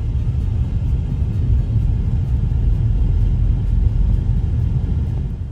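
Wind buffeting the microphone: a heavy, uneven low rumble that drops away suddenly near the end.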